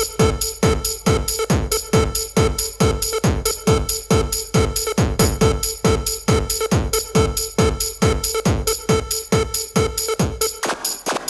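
Hard electronic trance music: a four-on-the-floor kick drum pounding about twice a second under a sustained synth tone. The kick drops out near the end, opening into a breakdown.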